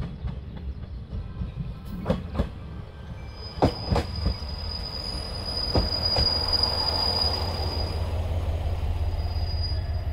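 A train pulling into a station: the wheels click over rail joints, a steady high brake squeal comes in about three seconds in and fades near the end, and a steady low hum from the train's machinery takes over as it draws alongside and slows.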